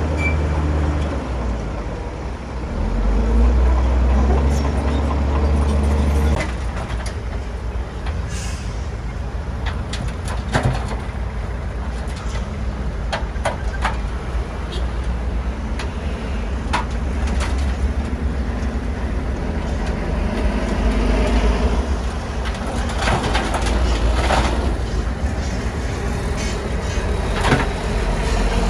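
Bulldozer's diesel engine running under load, with scattered clanks and clicks from the machine working; the engine note shifts about six seconds in.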